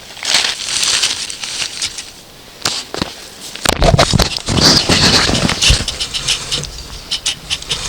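Rustling, crackling and irregular clicks of damp twigs and paper being handled at an unlit campfire. About halfway through a low rumble joins and the sound grows louder.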